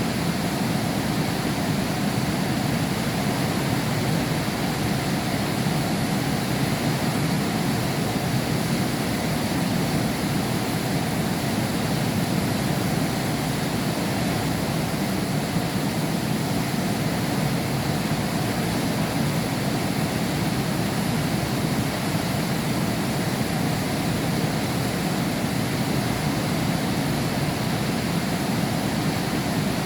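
Heavy rain falling steadily, heard from behind window glass: an even, unbroken rush that is strongest in the low range.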